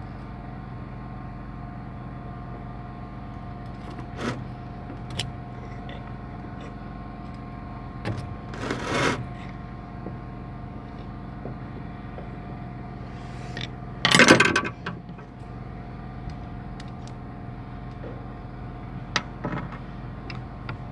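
A steady mechanical hum with scattered metallic clicks and clinks, and two louder noisy bursts, about nine and fourteen seconds in.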